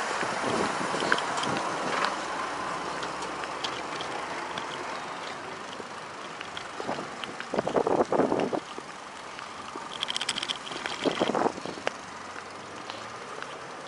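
Bicycle ride heard from the bike: steady rush of wind and tyres on the path, with small rattles and clicks, and two louder rough bursts about eight and eleven seconds in.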